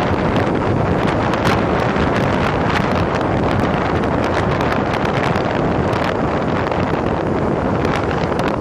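Loud wind rushing over the microphone of a phone mounted on a moving motorcycle: a steady rush with frequent crackles that buries the engine and road noise.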